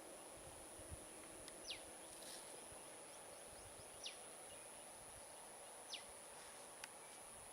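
A bird gives a short, steeply falling whistle three times, about two seconds apart, over faint outdoor background noise and a steady high-pitched whine.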